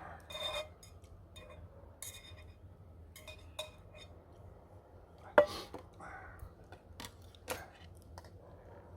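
Eating utensils clinking and scraping against dishes during a meal, in scattered short knocks, with one sharp ringing clink about five and a half seconds in.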